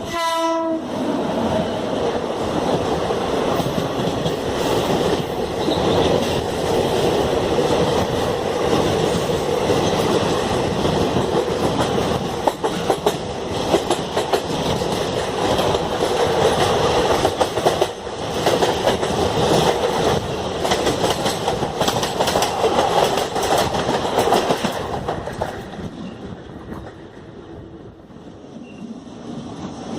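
A train horn sounds briefly at the start, dropping in pitch. Then comes the loud, continuous rush and wheel clatter of a train passing alongside. It fades about 25 seconds in, and the noise rises again near the end as the next train approaches.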